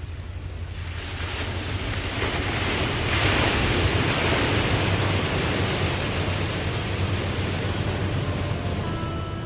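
Steady rush of a waterfall with a low rumble, swelling louder for a few seconds in the middle as a gust of wind sweeps through, then easing back.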